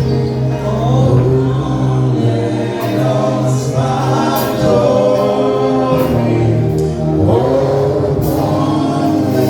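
Gospel worship music with a choir singing over a steady bass.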